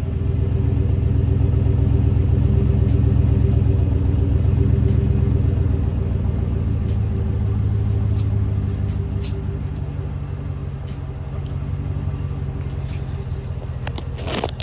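2012 Chevrolet Silverado pickup idling through a newly fitted Dynomax aftermarket exhaust: a steady, deep growl that is not too loud, easing a little quieter in the second half.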